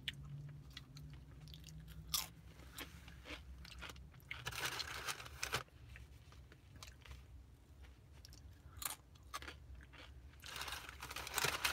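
A person chewing and biting crunchy food, with scattered clicks and short rustles as the food is handled.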